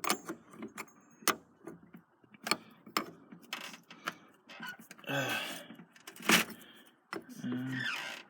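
Hand tools working a nut tight: irregular metallic clicks and knocks from a wrench and ratchet, with a couple of longer rattling runs about five seconds in and near the end.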